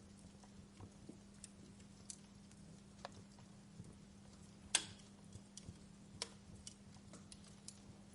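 Wood fire crackling: irregular sharp pops and snaps from burning logs, a few a second at most, the loudest a little past halfway, over a faint low steady hum.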